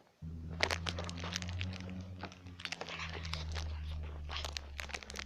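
Plastic marshmallow bag crinkling and crunching as it is handled and opened, in quick irregular crackles over a steady low hum; the sound starts suddenly just after the beginning.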